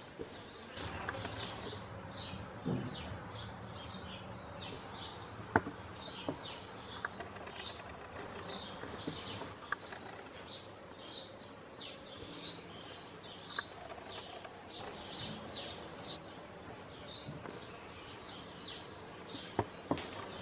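Small birds chirping over steady background noise: a run of quick, short falling chirps that goes on and on, with a few soft clicks now and then.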